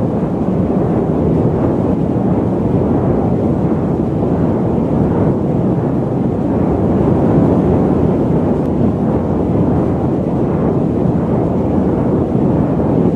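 Loud, steady static noise: an even rushing hiss weighted toward the low and middle range, with little treble.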